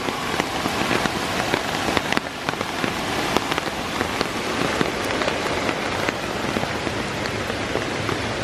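Heavy rain pouring steadily, a dense hiss full of sharp individual drop impacts close by.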